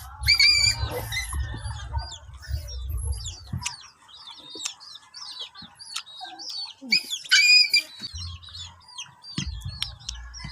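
Chickens clucking amid many short bird chirps, with a louder call about half a second in and another about seven seconds in. A low rumble lies under the first few seconds and comes back near the end.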